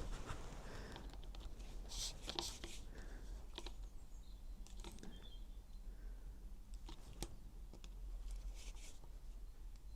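Faint, scattered clicks and light scrapes of hand tools and small metal engine parts being handled, a few seconds apart and at irregular intervals.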